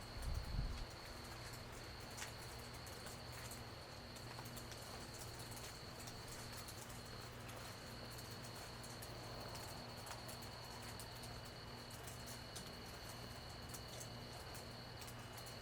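Night insects calling in a steady high-pitched trill, over a low steady hum and scattered faint ticks, with a brief low thump in the first second.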